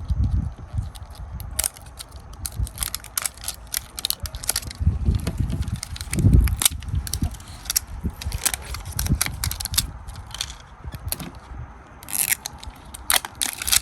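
Crinkling, crackling and tearing of a Foodie Mini Brands capsule's wrapping as it is peeled open by hand, with irregular clicks and a few dull handling thumps.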